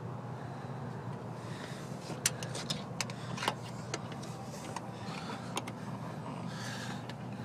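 Scattered sharp clicks and light scrapes of a bent metal tool being worked through the door's window trim of a locked Dodge Ram 1500 pickup, over a steady low hum.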